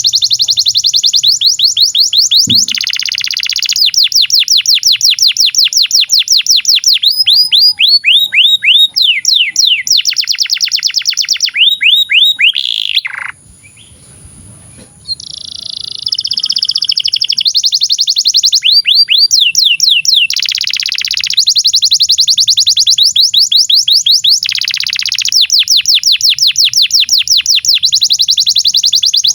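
Domestic canary singing a long, fast song of rapidly repeated trilled notes and buzzy rolls, with a pause of about two seconds near the middle.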